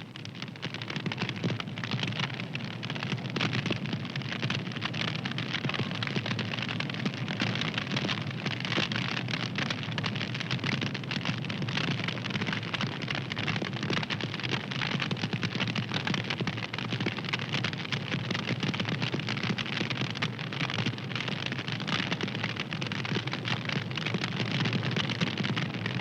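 Fire crackling steadily, a dense run of small pops and snaps over a low rushing burn.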